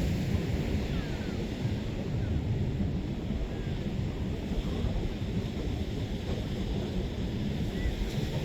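Heavy sea surf in a strong wind: large waves surging and breaking in a steady wash, with wind buffeting the microphone as a constant low rumble.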